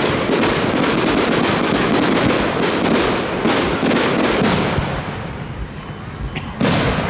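Fireworks display: a rapid barrage of many overlapping bangs and crackles that thins out after about five seconds, with one sharp bang near the end.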